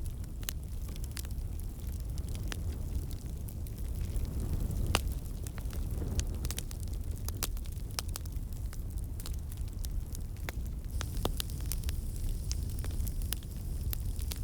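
Wood fire burning in a fireplace: a steady low rumble of flames with frequent irregular crackles and pops, one sharper pop about five seconds in.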